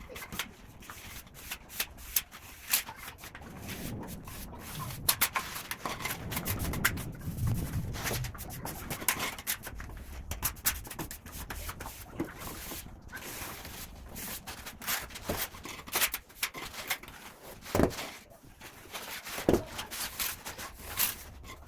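Steel plastering trowel scraping and smoothing wet cement mortar, in irregular strokes with scattered clicks and taps.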